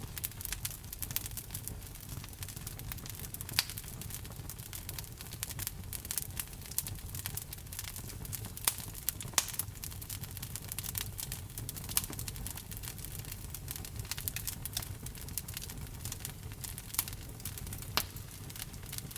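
Wood fire burning in a fireplace, crackling steadily over a low rumble, with irregular sharp pops, several of them loud.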